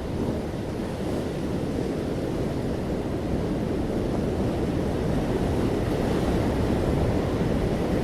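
Ocean waves washing onto a shore in a steady, continuous surf with a gentle swell in loudness.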